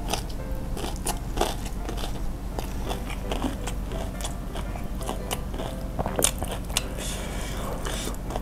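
Crispy fried chicken being bitten and chewed close to the microphone: crunchy, crackling bites of the fried crust with wet chewing of the sauce-coated meat, one crunch louder about six seconds in.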